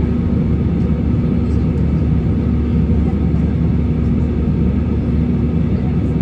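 Steady drone of an airliner cabin in flight: engine and airflow noise with a constant low hum.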